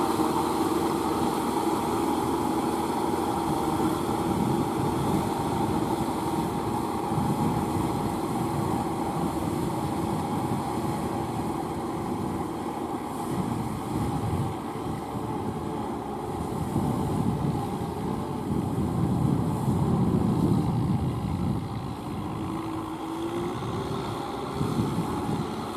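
Kubota M6040SU four-wheel-drive diesel tractor working under load while rotary-tilling a wet, sticky paddy field, its engine running steadily with swells in level and a brief rise in pitch near the end.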